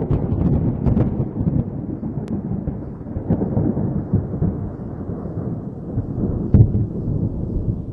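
Thunder rumbling: a long, deep roll that slowly fades, with a sharper crack about six and a half seconds in.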